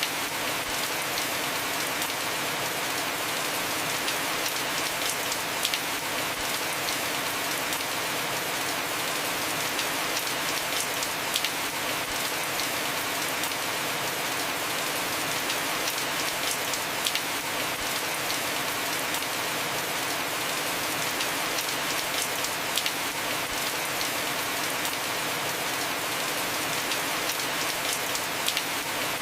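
Heavy rain falling steadily on a house roof, a continuous hiss with scattered sharper drips and drop hits.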